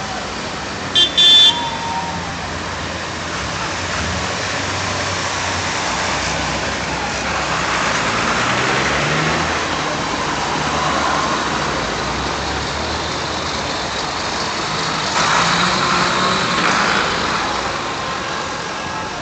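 Vintage tractors driving past with their engines running, the engine note rising and falling and growing louder near the end. A vehicle horn sounds twice, briefly, about a second in.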